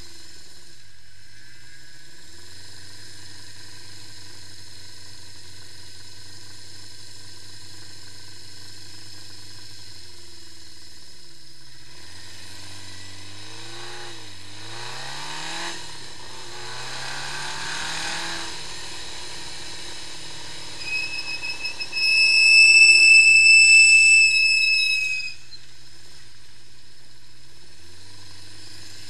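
Honda CB550 Four's air-cooled inline-four idling steadily, then revved up and down a few times before settling back to idle. Near the end a loud, high squeal sounds for about four seconds, beginning with a few short chirps.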